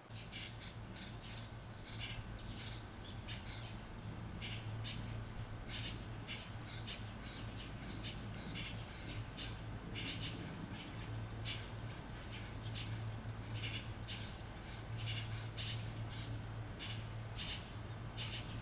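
Birds chirping in quick, irregular short calls, several a second, over a steady low hum.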